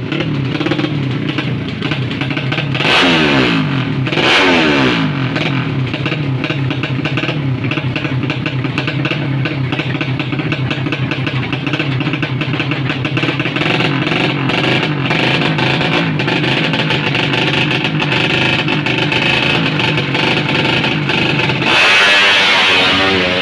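Racing motorcycle engine revving hard, its pitch sweeping up and down twice about three to four seconds in, then held at a steady high pitch for a long stretch before it changes abruptly near the end.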